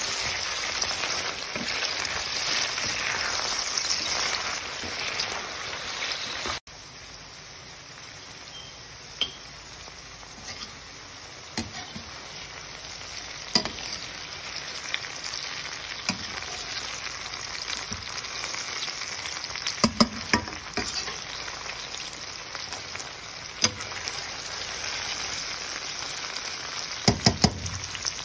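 Chopped okra stir-frying in a metal pan: a steady sizzle, louder for the first six seconds or so, then cutting abruptly to a quieter sizzle. Stirring clicks against the pan come now and then, a few in quick succession near the end.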